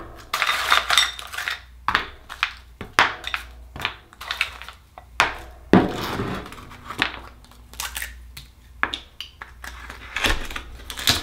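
A metal tool clicking, knocking and scraping against hard oyster shells, in irregular sharp clinks with short bursts of scraping.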